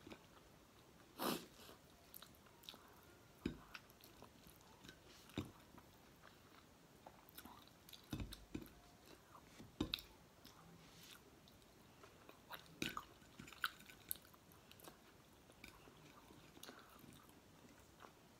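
Quiet close-up chewing and biting of crisp fried galunggong (round scad) eaten by hand, its well-fried bones crunchy. Short sharp crunches and clicks come every second or two between soft chewing.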